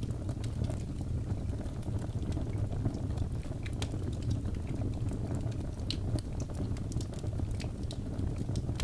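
Fireplace fire crackling: frequent small, sharp pops and snaps over a steady low rush of the flames.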